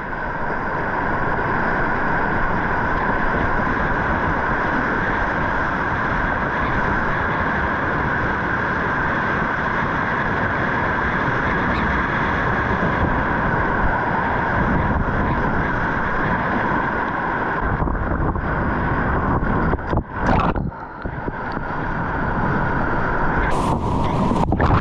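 Rushing whitewater: a loud, steady river noise, with brief dips around 18 and 20 seconds in and a sharper splashing hiss near the end.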